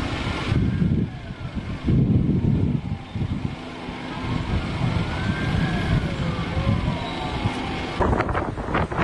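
An emergency vehicle's siren wailing, its pitch slowly rising and falling, over a loud low rumble of wind and traffic. The sound cuts abruptly to a different rumble about eight seconds in.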